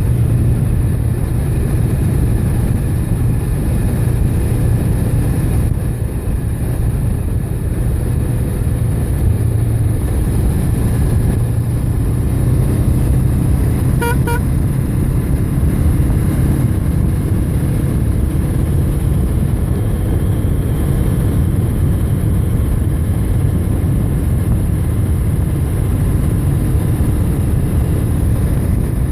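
Steady wind and road rumble of a ride on the move, with a brief double beep about fourteen seconds in.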